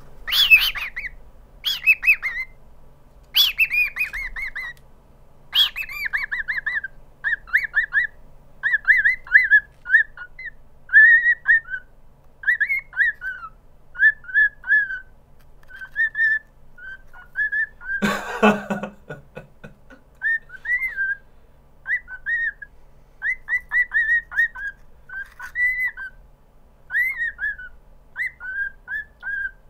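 Grey cockatiel whistling its song. A few loud, shrill calls come in the first six seconds, then a long run of short whistled notes that rise and fall, about one a second. A brief scuffing noise comes about eighteen seconds in.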